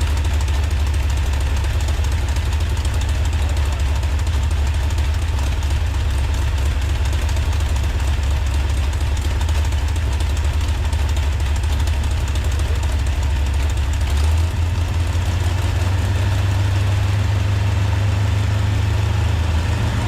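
Chrysler 440 big-block V8 with a Comp Cams Thumpr hydraulic roller camshaft, running at idle on an engine run stand. Its idle speed steps up about fourteen seconds in.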